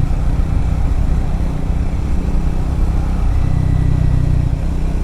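Triumph Scrambler motorcycle engine running under way on a gravel road, with steady road and wind noise. The engine note shifts about three seconds in.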